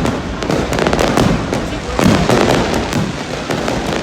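Fireworks going off in rapid succession: many sharp bangs and crackles following close on one another without a break.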